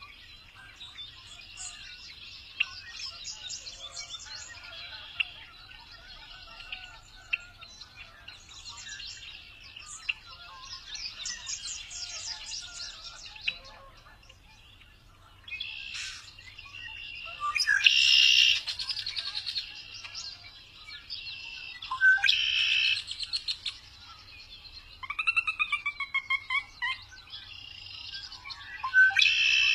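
Several songbirds chirping and calling over each other: fast trills, loud harsh calls a little past halfway and again a few seconds later, and a run of quick sliding whistles.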